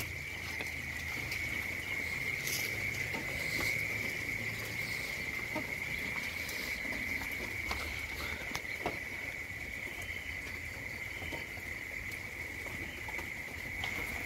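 Steady high-pitched outdoor insect chorus, one even trill, with scattered light taps and patter of rain drips.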